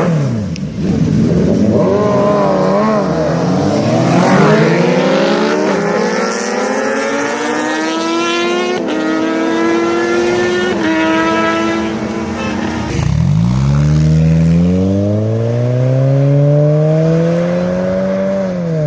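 Superbike engine revving hard under full acceleration, its pitch climbing steadily for about twelve seconds, dropping sharply, then climbing again before falling near the end.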